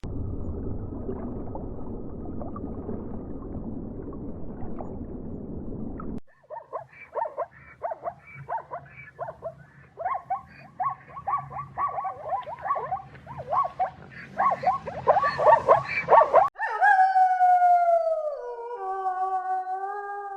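Three different animal sounds in turn: a rough, low rumbling sound for about six seconds, then fast runs of short yelping calls, then, for the last few seconds, a long howl-like call that falls in pitch in steps.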